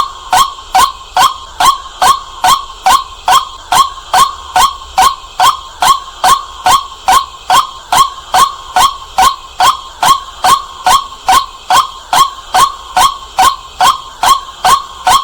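White-breasted waterhen calling: a short, upward-hooked note repeated at a very even pace, about two and a half times a second, loud and clear.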